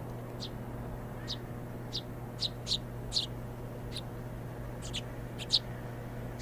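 Small birds chirping: about a dozen short, high, sharp chirps at an irregular pace, the loudest one a little past five seconds in, over a steady low hum.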